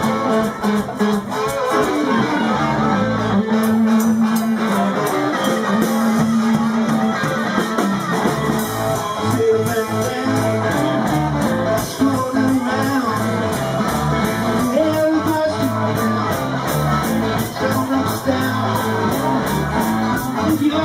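Live blues-rock band playing an instrumental stretch: electric guitar over a steady drum-kit beat.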